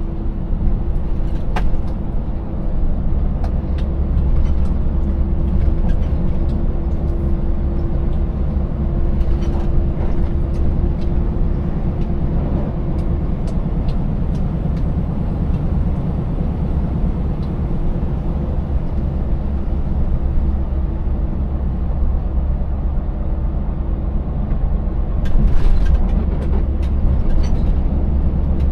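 Scania 590S 16-litre V8 truck engine running steadily under way, a deep rumble with a held hum, over tyre and road noise. Occasional clicks and knocks, and a louder burst of noise about 25 seconds in.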